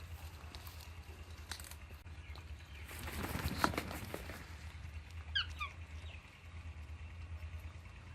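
Parrots rustling and picking at palm fronds: scattered clicks and a rustling burst of about a second, followed by a quick run of short, falling chirps.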